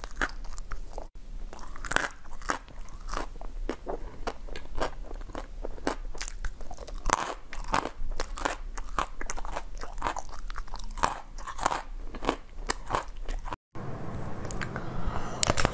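Close-up crunching and chewing of small candies, with many sharp, irregular crunches in quick succession. About 13 seconds in the sound drops out for a moment, then denser crunching follows.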